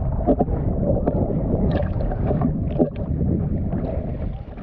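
Jet ski running across the water: a dense, steady low rumble of engine and hull noise, broken by short splashes, with wind buffeting the microphone.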